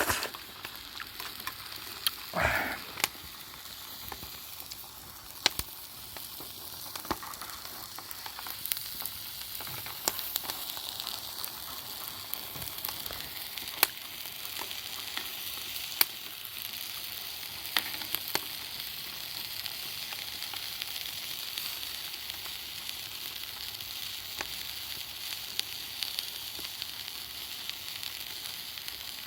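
Steady sizzling over a campfire, with scattered sharp pops and crackles and a brief falling sound about two and a half seconds in.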